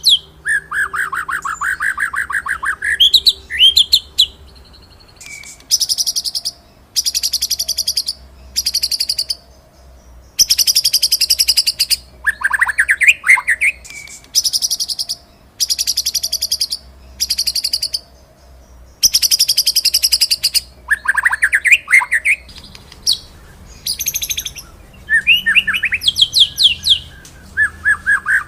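White-rumped shama (murai batu) singing: rapid, high rattling rolls about a second long, repeated again and again, broken by rising whistled phrases.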